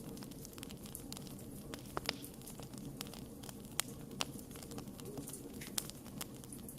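Wood fire burning with a steady low roar and irregular sharp crackles and pops, a few louder snaps standing out.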